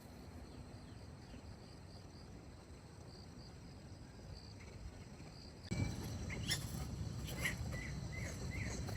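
Crickets chirring steadily and faintly over a low rumble. About two-thirds of the way through, the sound jumps abruptly to a louder background with short chirping calls and a few sharp clicks.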